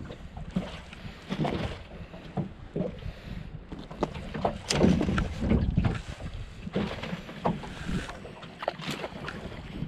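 Irregular knocks, rattles and splash-like sounds in a small fishing boat, with wind rumbling on the microphone; the loudest cluster comes about halfway through.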